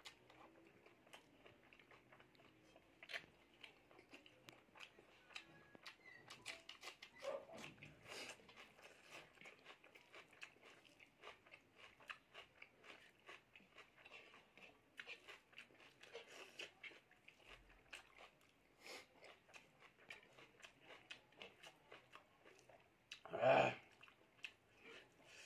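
Close-miked eating sounds: a person chewing a mouthful of rice and pork, with many small wet clicks. One louder noise comes near the end.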